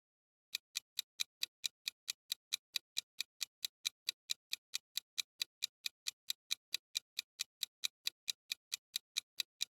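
Ticking-clock sound effect of a quiz countdown timer, even sharp ticks at about five a second, counting down the time to answer.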